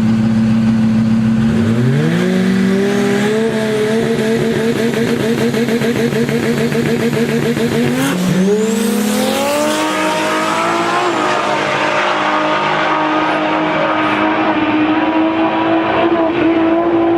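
Turbocharged Toyota 2JZ straight-six of a drag-race pickup held at a steady rev, then launching about a second and a half in, its note climbing and holding. It drops at an upshift about eight seconds in, climbs again, and shifts once more a few seconds later before pulling steadily.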